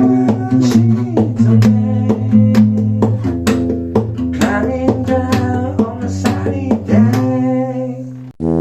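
Guitar strung with a single string, plucked and strummed in a steady rhythm, its low bass notes held and ringing under each stroke. The playing breaks off in a brief drop shortly before the end.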